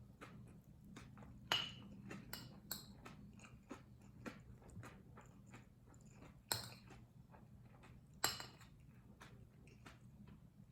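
Close-miked chewing and mouth clicks of someone eating kimchi fried rice, with cutlery clinking against the dish three times louder, about a second and a half in, then twice near the end, over a low steady hum.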